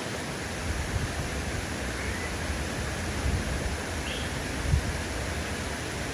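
Steady rushing outdoor noise, an even hiss like flowing water, over an uneven low rumble, with two faint short high chirps about two and four seconds in.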